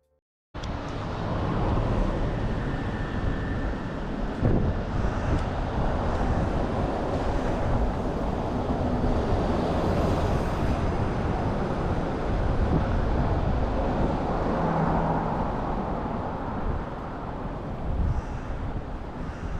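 Typhoon wind buffeting the microphone, a dense rushing noise heaviest in the low end, mixed with street traffic; it starts suddenly about half a second in.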